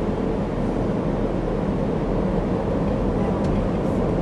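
Amtrak Empire Builder passenger train running, heard from aboard: a steady, even rumble of the moving train, strongest in the low and middle range.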